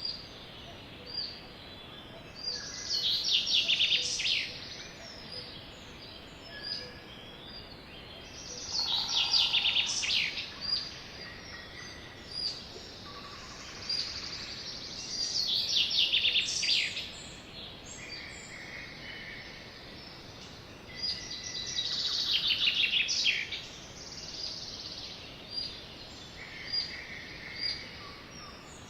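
Sparrows singing: four rapid, high trilled song phrases about six seconds apart, with single short chirps in between, over a steady background hiss.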